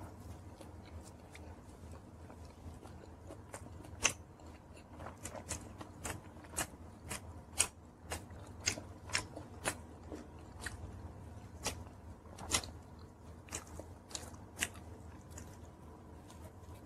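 Close-up chewing and biting of a pizza slice, with sharp, irregular mouth clicks and crunches, about one or two a second, starting a few seconds in.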